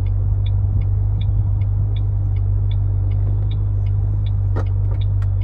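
2006 Ford Mustang GT's 4.6-litre V8 idling steadily, a low rumble heard from inside the cabin, with a faint regular ticking about two or three times a second and a single click near the end.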